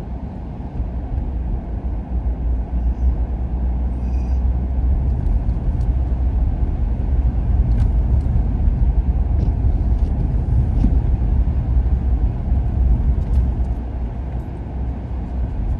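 Steady low rumble of a car driving, heard from inside the cabin: engine and tyre road noise, with a few faint clicks.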